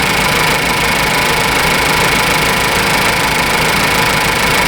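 2014 Ford Focus 2.0-litre four-cylinder engine idling steadily, with its A/C compressor not engaging because its fuse is blown.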